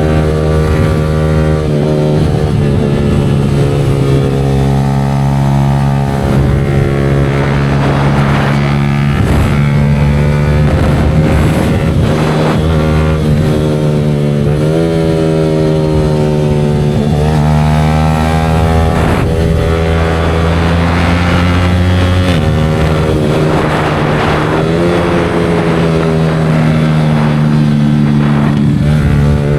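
Yamaha R15 V4's single-cylinder engine running through a Leo Vince aftermarket exhaust while the bike is ridden. The exhaust note holds steady for long stretches and rises and falls in pitch several times with throttle and gear changes.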